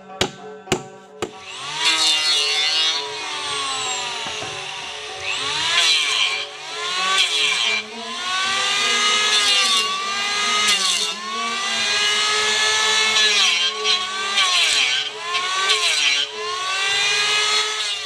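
A few sharp taps, then sawing with a squealing, scraping sound that rises and falls in long strokes, roughly one every one and a half to two seconds.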